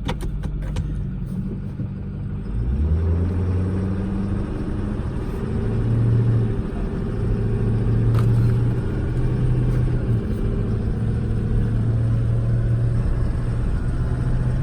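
2008 Ford F550's freshly rebuilt 6.4L Power Stroke V8 diesel pulling the truck away from a stop and upshifting through a couple of gears. There are a few sharp clicks at the start, the engine note rises about two and a half seconds in, and it steps in pitch around six and eight seconds as the transmission changes gear.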